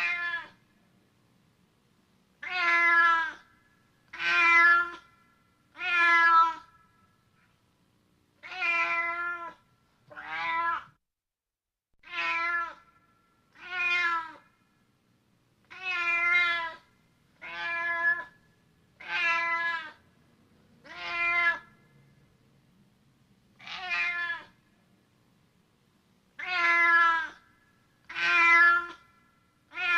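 A cat meowing over and over: about fifteen meows, each lasting about a second, coming roughly every one and a half seconds with a few longer pauses.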